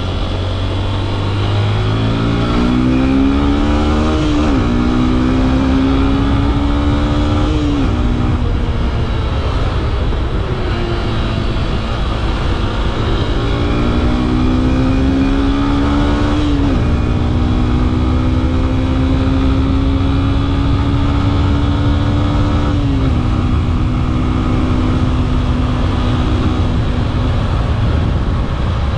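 Yamaha FZ-S V3's 149 cc single-cylinder engine under hard acceleration. Its note climbs and then drops sharply four times as it shifts up, over a steady rush of wind and road noise.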